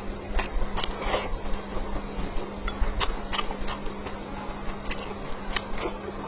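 Close-miked eating sounds: chewing and mouth noises with irregular sharp clicks, a few every second.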